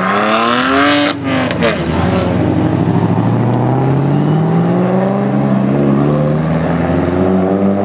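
A supercar's engine and exhaust accelerating hard, rising in pitch. About a second in it breaks off with a few sharp cracks at the shift, then pulls again with a steadily climbing note.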